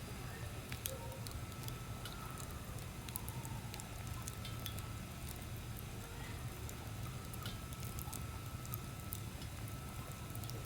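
Wood fire crackling, with irregular small pops and snaps over a steady rustle.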